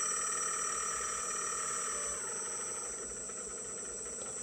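The hydraulic pump of an RC dump truck whines steadily while working the tipper bed, then stops about two seconds in. A steady engine-like hum runs underneath.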